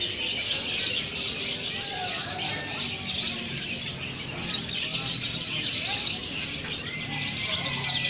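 Many caged songbirds chirping at once in a dense, continuous chorus of overlapping high chirps and tweets.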